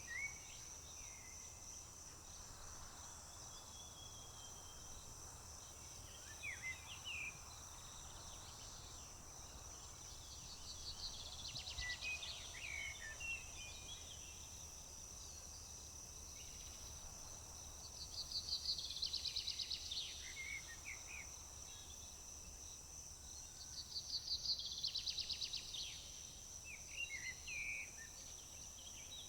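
A steady, high-pitched chorus of crickets, over which a songbird sings a trilling song three times, roughly every six or seven seconds, with shorter bird chirps between.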